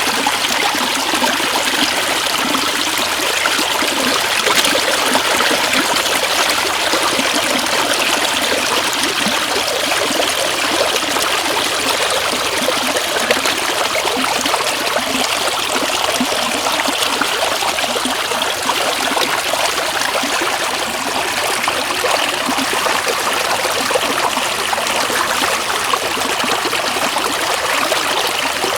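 Shallow floodwater running steadily, an even rushing noise that holds at the same level throughout.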